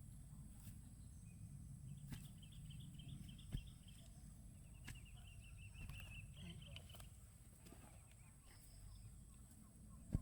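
A small bird trilling twice in quick runs of rapid high notes, over a faint low rumble. A sharp knock sounds about three and a half seconds in and another near the end.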